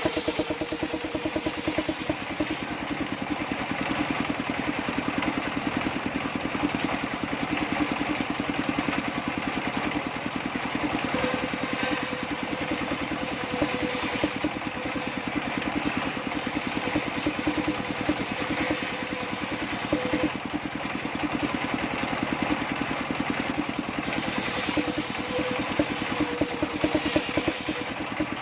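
Table circular saw with a Pilana blade running steadily, its drive pulsing evenly throughout, while sengon wood is sawn. A thin whine comes and goes, once partway through and again near the end.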